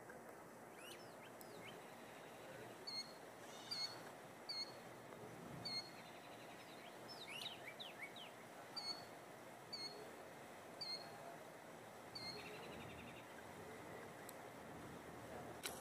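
Birds calling faintly: a short high chirp repeated about once a second in two runs, with a few quick rising calls between them, over a low steady hiss.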